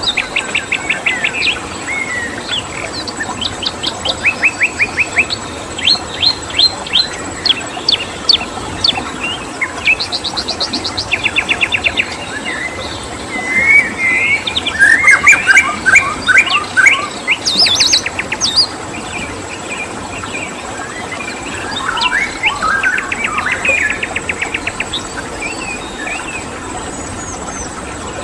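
Several songbirds chirping and trilling in quick runs of repeated high notes, louder and busier about halfway through, over a steady background hiss and a constant thin high-pitched tone.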